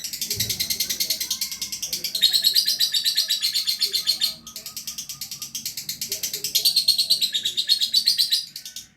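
Lovebird chattering in a long, unbroken run of fast, high chirps, with a brief dip about four seconds in and a stop just before the end: the lively, continuous 'gacor' song that keepers prize.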